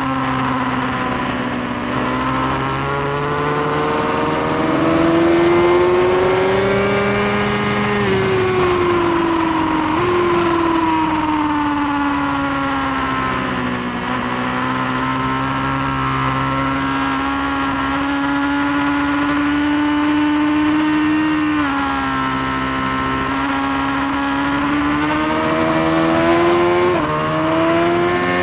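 Suzuki GSX-R1000R's inline-four engine running hard on a race track, its note repeatedly climbing with the throttle and falling again, with a few sudden small steps in pitch, under a steady rush of wind noise.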